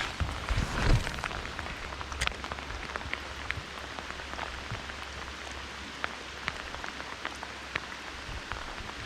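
Steady rain falling, with many scattered sharp drop ticks close by. A single louder knock about a second in.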